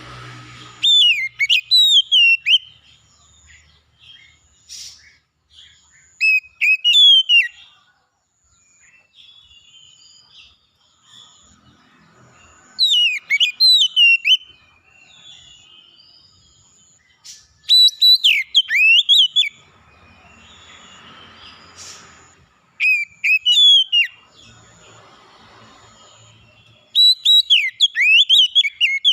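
A songbird singing loud whistled song phrases made of fast rising and falling notes, six phrases about five seconds apart. A faint high note repeats in short, even dashes in the background.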